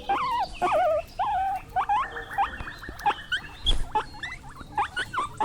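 Guinea pig squeaking: a quick run of short, high whistling squeaks, many rising at the end.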